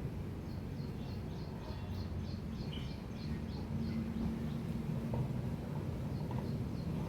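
A small bird calling in a rapid series of short, high, falling chirps, about three a second. The calls pause briefly and then start again near the end, over a steady low outdoor rumble.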